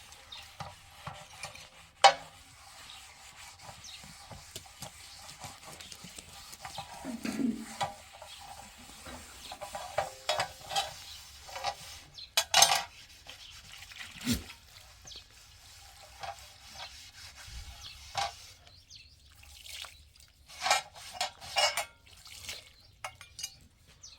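Dishes and metal utensils clinking and scraping, with scattered sharp clinks and knocks over a faint background.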